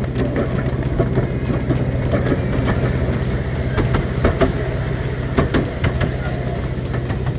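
7¼-inch gauge miniature railway train running, with many irregular sharp clicks from the wheels on the track over a steady low hum.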